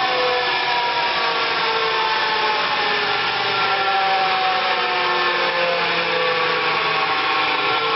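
Spencer Turbine central vacuum running: its Century electric motor and multi-stage turbine give a steady rush of air with several whining tones that slowly fall in pitch.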